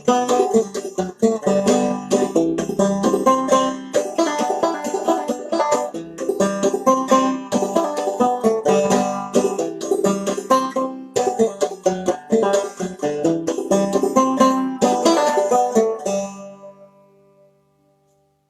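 Open-back banjo played in old-time clawhammer style, the strings struck down with the fingernails in a quick, steady run of notes. The tune ends about three seconds before the end and the last notes ring out and fade away.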